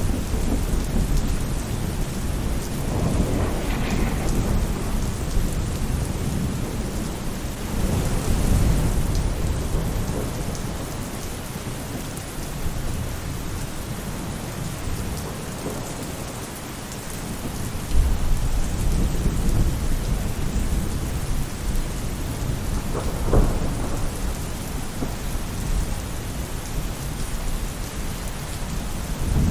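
Steady rain falling on a roof, with rolls of thunder rumbling low several times, the strongest about 8 seconds and 18 seconds in.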